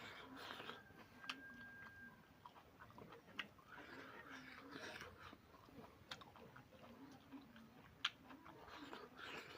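Faint close-up chewing of a mouthful of food, wet smacking with a few sharp clicks, the sharpest one a little before the end.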